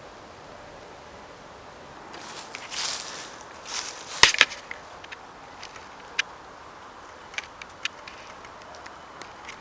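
Light rustling begins about two seconds in, with two sharp snaps or clicks in quick succession a little after four seconds, then scattered faint ticks.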